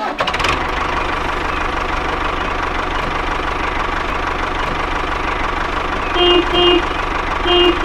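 Tractor engine running steadily, with a horn giving two short beeps twice near the end.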